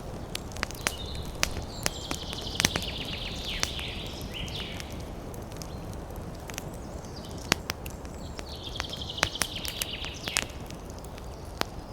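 Wood fire crackling in a fireplace: irregular sharp pops and snaps over a low rumble. Twice a high hiss rises for a couple of seconds, near the start and again past the middle.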